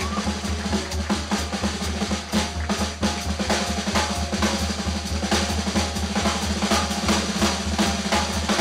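Jazz drum kit played on its own, a fast, busy run of snare and bass drum strokes.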